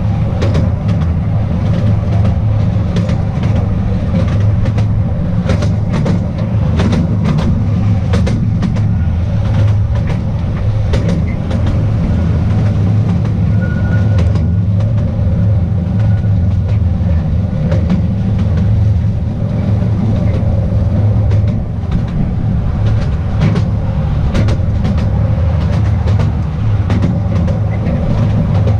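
Small narrow-gauge tourist train running steadily along its track, heard on board: a constant low rumble from the wheels with irregular clicks and clacks over the rail joints.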